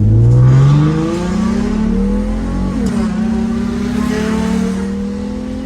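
Toyota Mark X's swapped-in 3.5-litre 2GR-FSE V6, breathing through an aftermarket stainless valvetronic exhaust, accelerating hard in first gear. The note climbs, drops sharply about three seconds in at the upshift, then climbs again more slowly in second.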